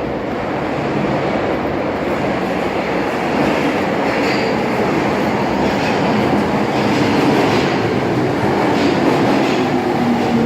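Tokyo Metro Marunouchi Line subway train pulling into the station, a steady rumble of wheels on rails growing a little louder. A short high squeal about four seconds in, and a few clicks in the second half.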